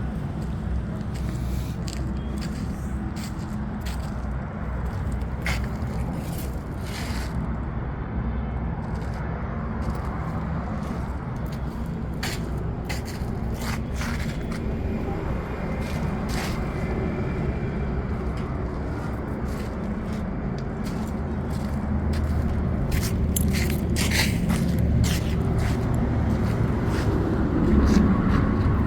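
Repeated short scraping and rustling sounds over a steady low rumble, with the scraping busiest near the end.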